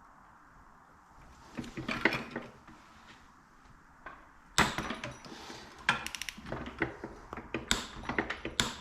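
Hand tools and small metal engine parts clinking and clattering as a fastener is fitted on the crankshaft gear. There is a few clicks about two seconds in, then a quicker run of sharp clinks through the second half.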